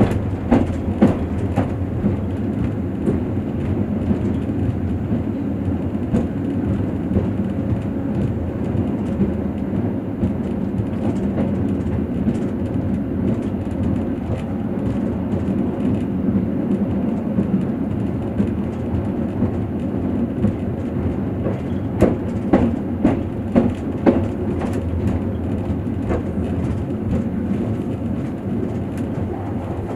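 Passenger train running on the rails, heard from inside the carriage: a steady low rumble with sharp wheel clacks over the rail joints, bunched near the start and again about three quarters of the way through.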